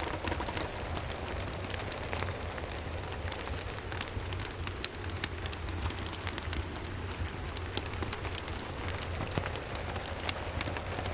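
Steady rain with a fireplace: an even hiss of falling rain, scattered sharp crackles and ticks throughout, over a steady low rumble.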